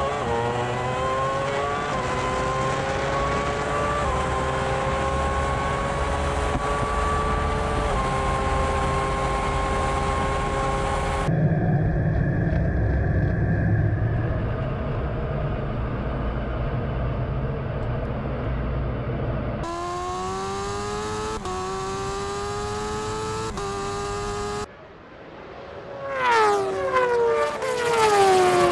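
High-performance vehicle engines at full throttle in a string of drag-race clips cut together. Each accelerates with its pitch climbing and dropping back at each upshift. Near the end a vehicle passes at speed with its pitch falling steeply.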